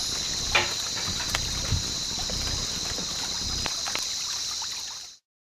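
Rainforest insect chorus: a steady high-pitched buzz, with a few light clicks and knocks over it, cutting off abruptly near the end.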